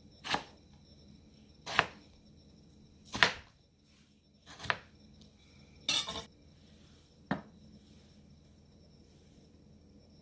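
Kitchen utensils knocking: six sharp strokes, roughly one every second and a half.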